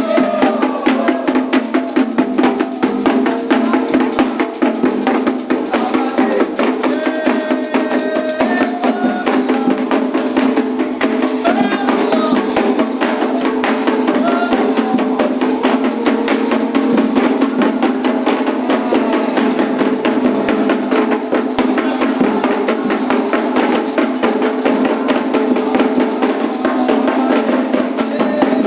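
Candomblé ritual drumming on atabaque hand drums, a fast, steady rhythm of dense strokes, with voices singing over it.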